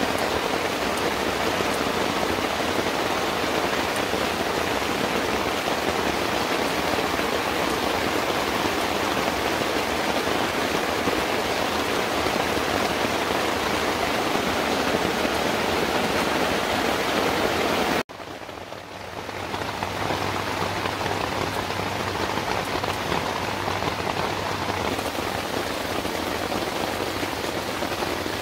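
Heavy rain falling steadily on the tent and tarp overhead. About eighteen seconds in it cuts out for a moment and comes back a little quieter.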